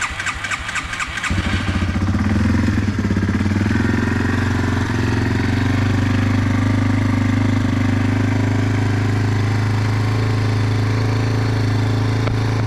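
Cold start of a 1999 Yamaha TT-R225's single-cylinder four-stroke engine with the choke fully on: it cranks briefly, catches about a second in, and settles into a steady idle.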